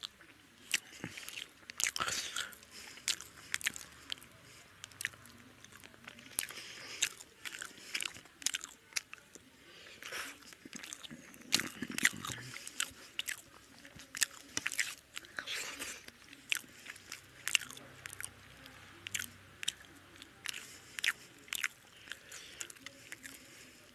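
Close-miked chewing of a person eating fish curry and rice by hand: a steady run of short, wet mouth clicks and smacks, several a second.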